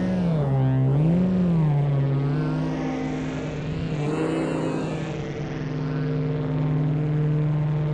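Massive software synthesizer playing a sustained, buzzy droning tone. Its pitch swoops down and up twice in the first couple of seconds, then holds steady while its brightness sweeps up and down, with the parameters moved by hand gestures over a Leap Motion controller.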